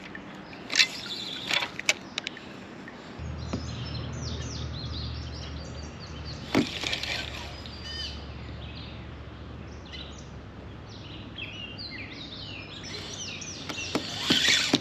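Birds singing in the background, with a few sharp knocks in the first two seconds and another near the middle, and a steady low rumble that comes in about three seconds in.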